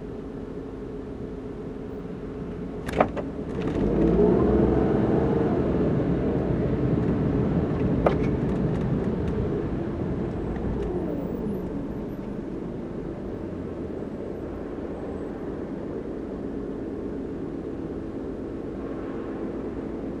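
Car engine heard from inside the cabin, idling with a steady hum while stopped in traffic. A sharp click comes about three seconds in, then the engine note rises as the car pulls away, with another click about eight seconds in, before it settles into a steady drive.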